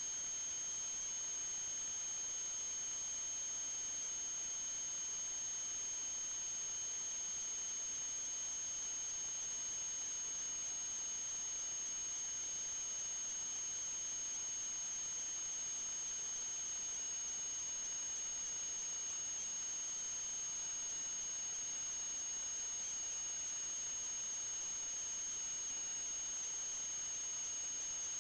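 Steady high-pitched electronic whine from a sewer inspection camera system: two thin unbroken tones, the higher one louder, over a constant hiss.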